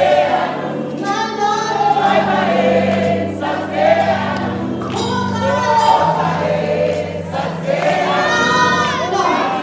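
Sung vocals with musical accompaniment: voices sing a melody with vibrato over held low notes that change about every few seconds.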